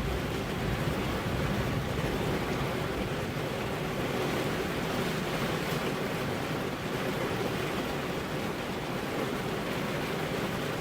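Heavy rain falling steadily, with the low rumble of thunder dying away in the first second or so.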